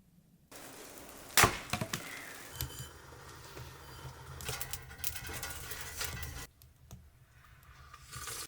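Wood being chopped with a hatchet: one loud sharp strike about a second in, followed by a few lighter knocks and the crackle of splitting wood.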